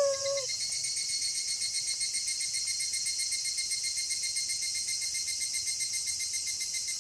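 A wolf howl trails off, falling in pitch, in the first half-second. After that only a steady chorus of crickets chirping in a fast, even pulse is heard.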